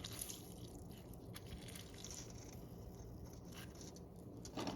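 A lemon squeezed by hand into a blender jar: faint crunching and squishing of the rind and pulp, with a few light clicks.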